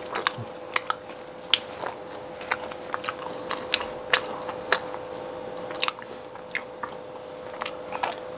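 Close-up chewing and biting of food, with sharp irregular mouth clicks and wet smacks a few times a second.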